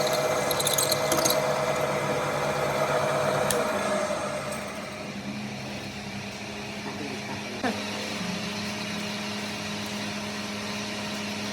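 A workshop machine running steadily, then winding down about four seconds in and leaving a low steady hum. A single sharp click comes near the end.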